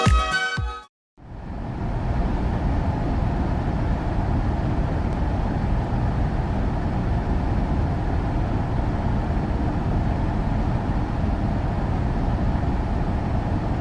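Dance music cuts off about a second in. After a short gap comes a steady, low rushing noise.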